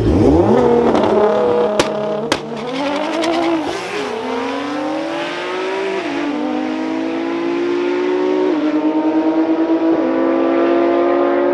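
Drag cars launching off the line and running down the strip at full throttle. The engine pitch sweeps up hard at the launch, then climbs and drops several times as they shift gears, with two sharp cracks about two seconds in. The highest sounds fade as the cars pull away on a pass of about 9.6 seconds at 155 mph.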